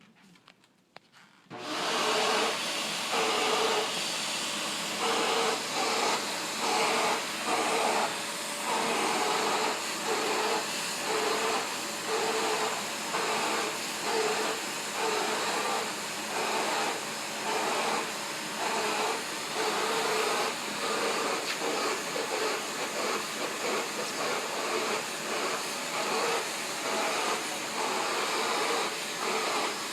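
Kenmore vacuum cleaner switched on about a second and a half in, then running steadily while it grooms a cat, its sound swelling and easing regularly, a little more than once a second, as the nozzle is passed over the fur.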